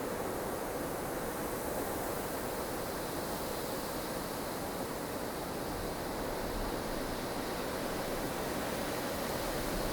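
Strong snowstorm wind blowing as a steady, even rush of noise, with no gusts or breaks.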